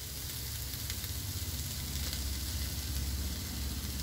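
Vegetables sizzling in oil and ghee in a pot as cooked basmati rice is tipped in and pushed off a plate, with a steady low rumble underneath.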